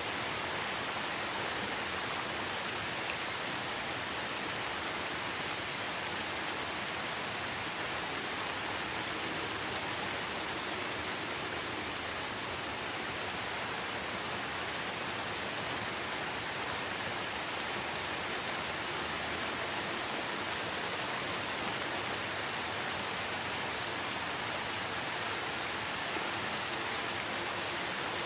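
Steady, even rain falling, a continuous hiss with faint scattered drop ticks.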